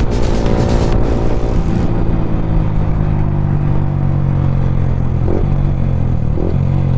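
Yamaha R15 V3's single-cylinder engine running through an Akrapovic aftermarket exhaust while the bike is ridden, its pitch falling slowly as the rider eases off.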